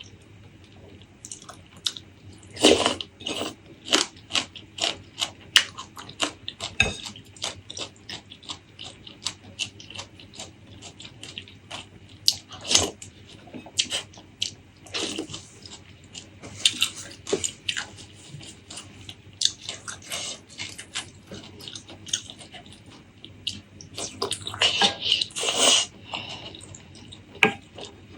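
Close-miked eating sounds: irregular wet chewing, lip smacks and mouth clicks, with louder clusters of bites about three seconds in, around the middle, and near the end.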